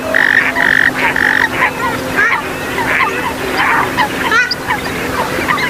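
Recorded swamphen and moorhen calls: short, repeated notes about two a second for the first second and a half, then a busier run of quick, rising chirping notes.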